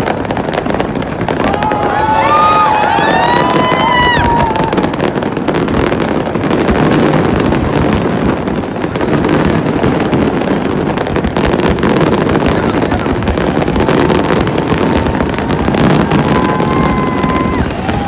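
A fireworks display: a dense, continuous crackle of bursting shells. A high gliding tone with overtones rises and then falls about two seconds in, and shorter high tones come near the end.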